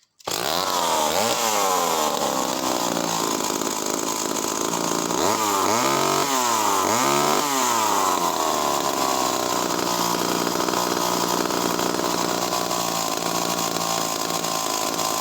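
Skilsaw 1644 two-stroke chainsaw running, starting suddenly. It is revved up and back down about a second in, given three quick throttle blips a few seconds later, then held at steady high revs.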